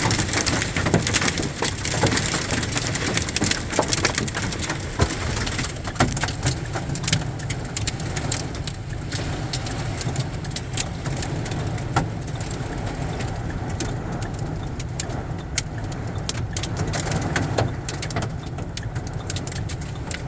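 Heavy rain falling, with many sharp drop impacts close by over a steady low rumble, likely traffic on the wet road; the higher hiss of the rain thins somewhat after the first few seconds.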